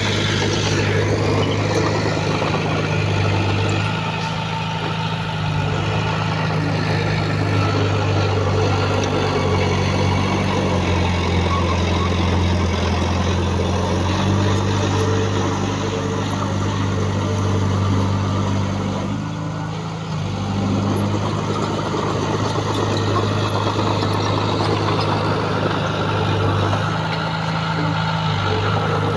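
Heavy diesel engine of earthmoving equipment running steadily, its note stepping up and down as the load changes, easing off briefly about twenty seconds in.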